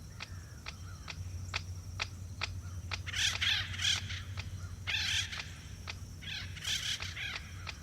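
Acorn woodpeckers tapping acorns into their storage holes, about two sharp taps a second, then breaking into three bouts of harsh, raspy chattering calls.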